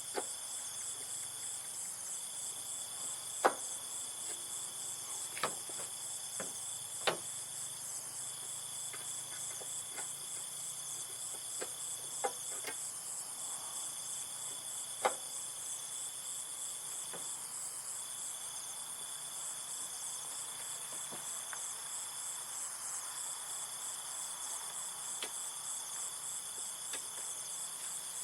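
Steady chorus of insects: a high continuous buzz that breaks off briefly every couple of seconds, with a fast pulsing trill above it. Several sharp knocks or clicks are scattered through it, the loudest about three and a half seconds in.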